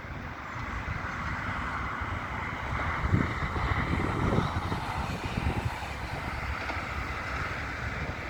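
Wind rumbling on the microphone over a steady rushing noise, with a stronger gust about three to four and a half seconds in.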